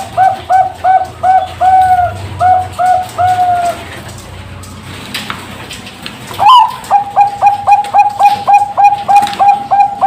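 Zebra dove (perkutut bangkok) cooing: a run of short coos, a pause of about two and a half seconds, then a louder rising opening note followed by a fast, even string of short coos, about three a second.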